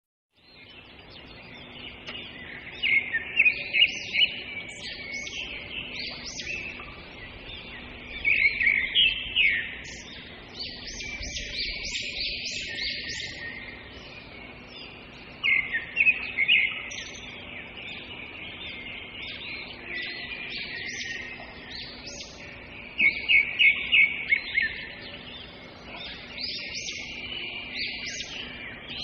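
Small songbirds chirping and twittering continuously, with louder bursts of quick repeated chirps every several seconds.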